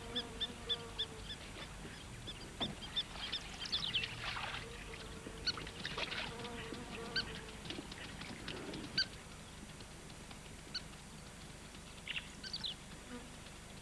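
Birds calling: a spur-winged plover giving rapid series of sharp, high-pitched alarm notes at an intruder near its nest, with lower honking calls in the first half.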